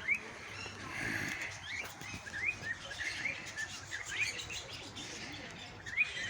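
A flock of budgerigars chattering: many short rising chirps, a few each second.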